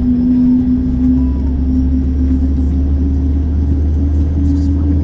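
Steady low rumble of cabin noise aboard a Boeing 767-400ER, with a humming tone that rises slightly in pitch about four seconds in.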